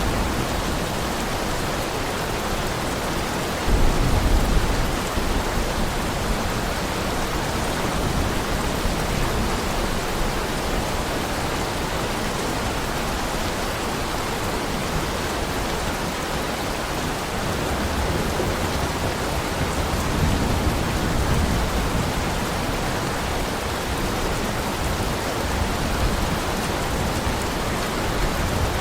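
Heavy rain falling steadily. A sudden low rumble of thunder comes about four seconds in, and a softer low rumble follows around twenty seconds in.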